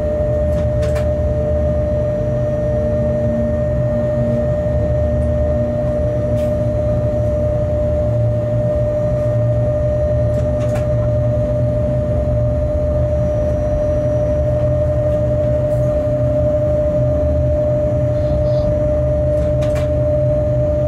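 Freight locomotive cab while running along the line: a steady low rumble with a constant whine held throughout, and a few faint ticks.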